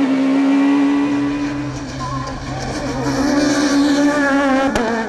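Peugeot 306 Maxi rally car's four-cylinder engine held at steady high revs, then the note dips about two seconds in and climbs again as the car pulls. A sharp click comes near the end.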